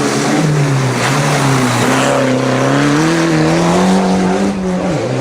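Rally car engine revving hard, its pitch climbing and falling repeatedly as the driver works the throttle and changes gear, with a sharp drop in revs just before the end.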